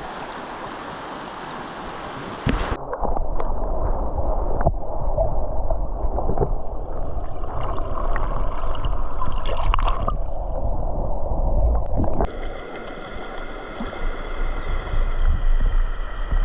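Shallow river water running and gurgling close by, with scattered knocks and splashes and a heavy low rumble from about three seconds in.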